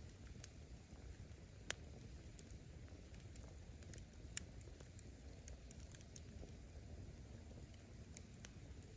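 Wood fire burning with a low rumble and scattered small crackles, and two sharp pops of bursting firewood, one just under two seconds in and another about four and a half seconds in.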